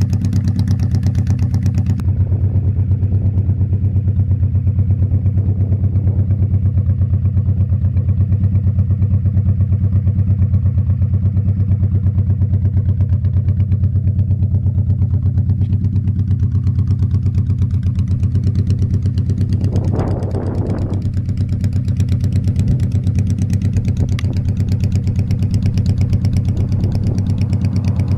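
Honda Shadow Spirit 1100's V-twin engine running steadily at an even pitch, as heard from the motorcycle. About two-thirds of the way through there is a brief rushing sound.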